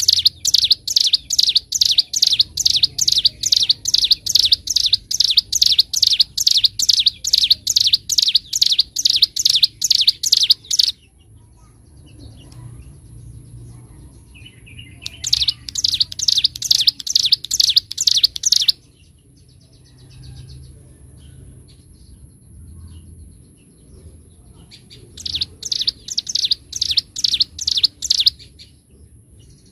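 Ciblek gunung, a prinia, singing a loud rapid series of sharp high repeated notes, about three a second, in bouts of several seconds separated by pauses of a few seconds.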